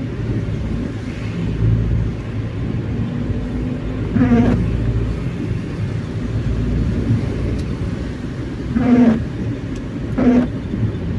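Car cabin with steady engine and road rumble while the windshield wipers sweep, each pass giving a short chattering squeak on the glass: about a third of the way in, then twice more close together near the end. The squeaking is typical of worn wiper blades, which the driver says are due for replacement.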